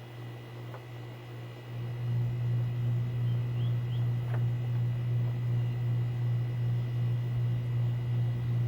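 A steady low mechanical hum that gets louder about two seconds in, with a few faint clicks.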